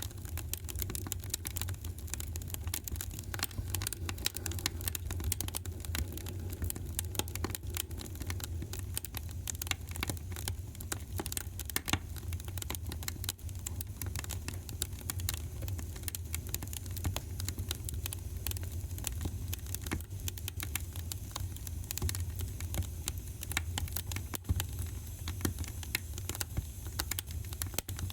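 Wood fire crackling steadily: a dense run of small pops and snaps over a low, even rumble.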